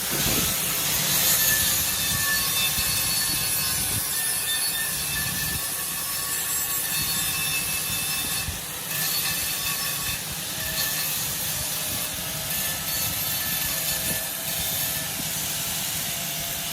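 Abrasive grinding on metal, most likely an angle grinder dressing the weld on a repaired wheel rim: a steady rasping noise with a faint held whine that runs on without a break.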